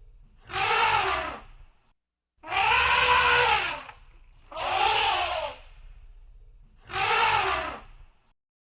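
An elephant trumpeting four times in a row, each call about a second long, brassy and rising then falling in pitch. A low rumble runs underneath.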